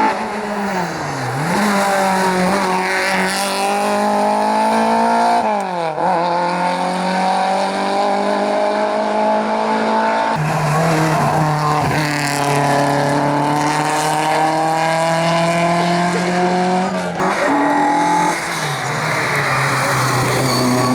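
Race car engine at full throttle on a hillclimb, revs rising steadily and then dropping sharply at each gear change or lift, about four times.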